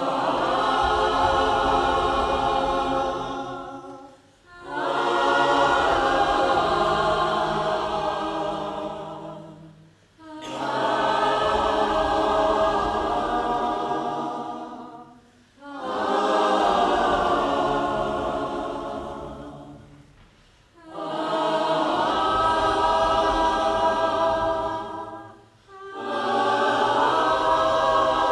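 Choir singing long held phrases in harmony, each lasting about five seconds and fading out before a short pause and the next entry.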